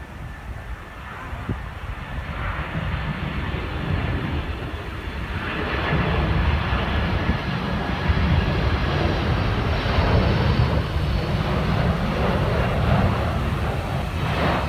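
Jet engines of a Boeing 767-300 airliner passing low on its landing approach. The noise is a low rumble with a rushing hiss that swells loudly about five seconds in and stays loud.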